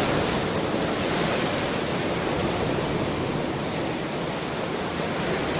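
Ocean surf washing onto a shore, a steady rushing of water that eases slightly and then swells again near the end.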